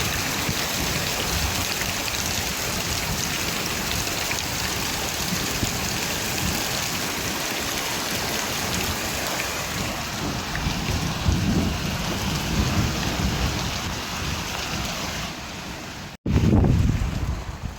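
Heavy steady rain with low rolling thunder. About sixteen seconds in, the sound cuts out for an instant and comes back with a loud, low rumble of thunder.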